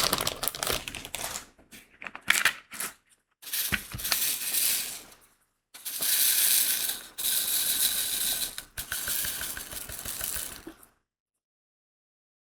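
Small crystal diamond-painting beads rattling and clattering in a tray, with a plastic bag crinkling. It comes in stretches of one to five seconds and cuts off abruptly about eleven seconds in.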